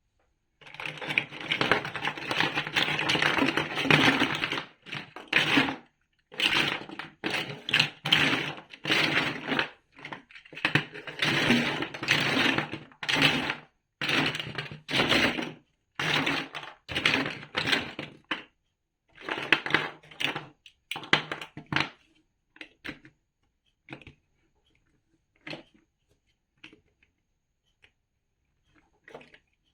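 Large plastic toy building bricks clattering and rattling as they are handled and fitted together. The sound comes as a dense jumble for the first few seconds, then in short bursts, and thins to scattered single clicks in the last third.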